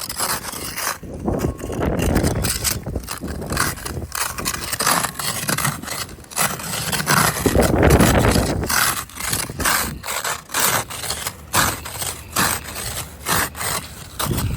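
Ice and frozen snow being scraped off a car in quick, repeated strokes.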